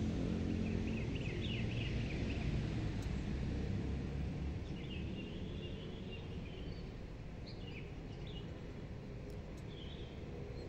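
Birds chirping in short scattered bursts over a steady low background rumble, which eases slightly about halfway through.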